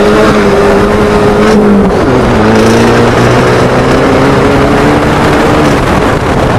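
Fiat Punto engine pulling hard up a steep hill, loud and close. The revs hold high, drop sharply about two seconds in, then climb slowly again.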